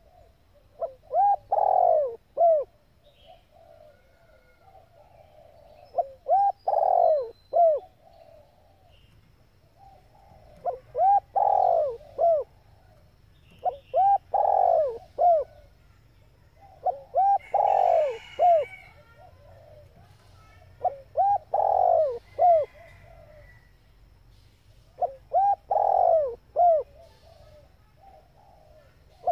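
Female spotted dove cooing: short phrases of three or four soft coos, repeated about every four seconds, seven times over. This is the kind of call used to rouse male doves.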